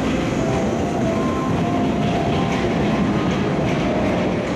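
Local electric train arriving at the platform, a steady rumble of wheels on rail with faint tones above it.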